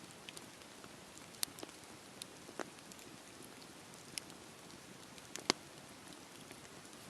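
Campfire crackling: scattered sharp pops and snaps over a soft, steady hiss of the burning fire. The loudest pop comes about five and a half seconds in.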